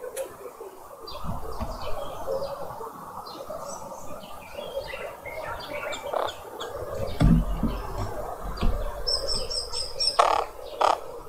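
A group of green wood hoopoes calling in a busy, cackling chorus over a dawn chorus of other birds. About nine seconds in there is a quick run of about five high notes, then a louder sharp call.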